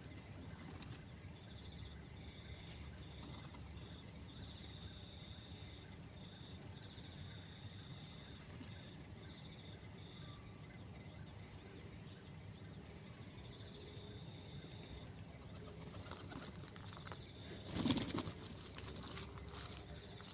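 Faint outdoor background with a high, broken trill recurring through most of it, then near the end a short, loud flurry of bird wingbeats as birds take off or land.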